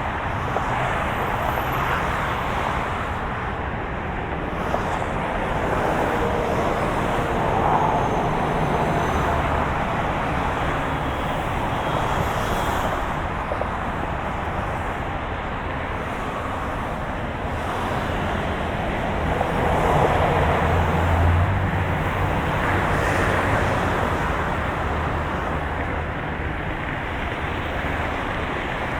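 Moving car's steady road and engine noise: a continuous rushing hum with a low drone underneath, swelling slightly about eight seconds in and again around twenty seconds in.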